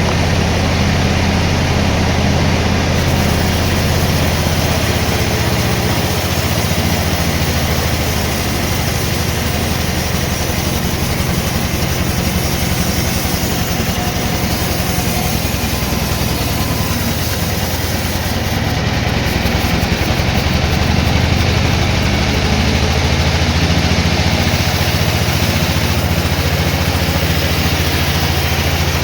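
Sawmill machinery running steadily: a constant low engine-like drone under a dense, even noise, with no marked change in load.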